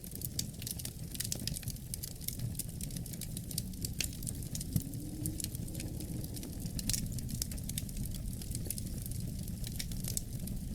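Wood fire burning in a fireplace: a steady low rumble of flames with frequent small crackles and pops, one louder pop about four and a half seconds in.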